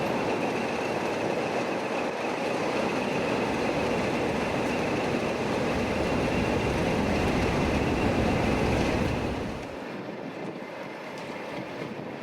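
A train running along the platform: steady rumble of wheels on rail with a faint high whine, dropping away sharply about nine and a half seconds in as it clears.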